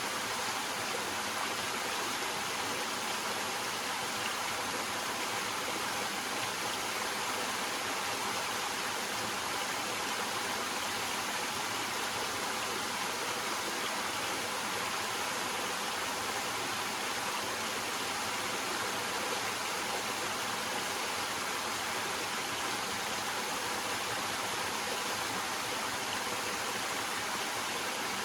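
Small waterfall with water cascading over rocks, a steady, even rush of flowing water.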